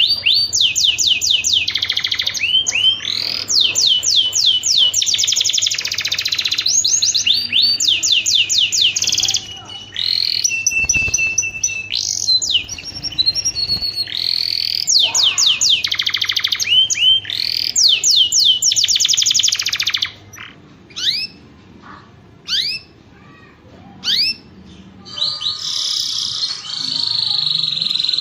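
Domestic canary singing: long rolls of rapid repeated trill notes, a few steady held whistles about a third of the way in, then a sparser stretch of single chirps before the fast trilling resumes near the end.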